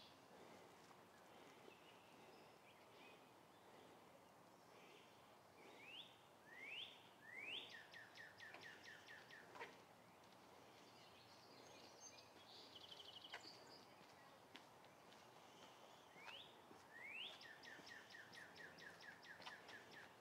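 Faint woodland birdsong over a low hiss: a songbird sings a rising note followed by a quick run of short notes, twice, with another bird's brief trill in between. A few faint clicks are also heard.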